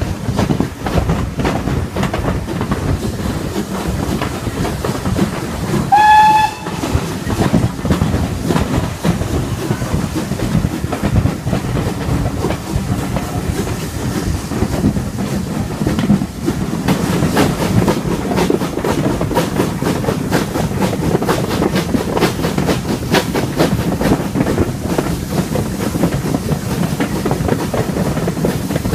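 Steam-hauled train of coaches running along the line, heard from an open carriage window: a steady rumble with the wheels clicking over the rail joints. About six seconds in, the locomotive gives one short blast on its steam whistle.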